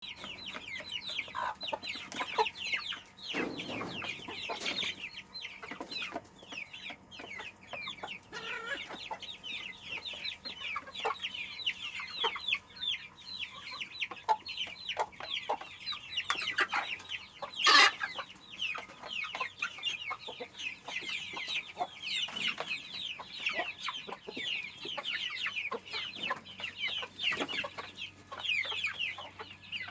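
A flock of chickens clucking, with a steady stream of short, high, falling calls and one louder squawk about eighteen seconds in.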